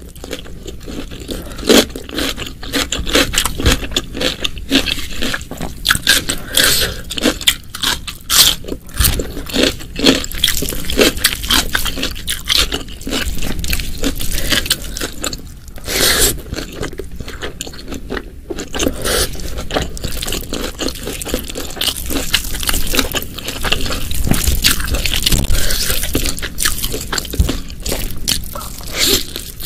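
Close-miked eating sounds: a person chewing and biting food, a dense run of short crunches and mouth clicks.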